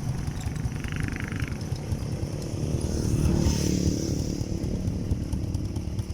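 Small motorcycle engine running, rising in loudness about three seconds in and then easing back.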